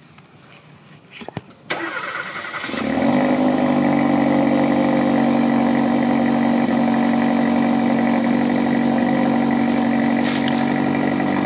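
Hyundai Elantra GT N Line's turbocharged 1.6-litre four-cylinder starting through its stock exhaust: a few faint clicks, then the engine catches about two seconds in. It settles within a second into a steady cold idle.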